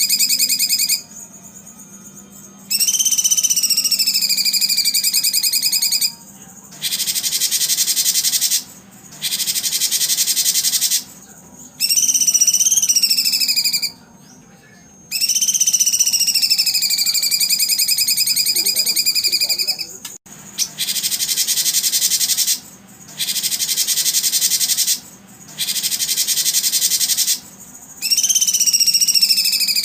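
Songbird singing in a loud, repeated pattern: long whistled phrases that sag and rise in pitch, alternating with spells of rapid, buzzy trilling, each separated by a short pause.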